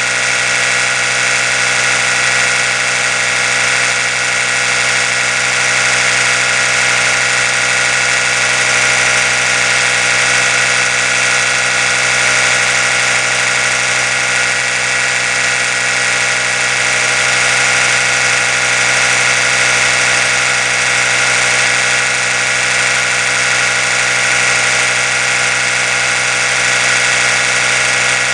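Oral-B electric toothbrush running continuously, a steady high buzzing hum that does not change in pitch or level.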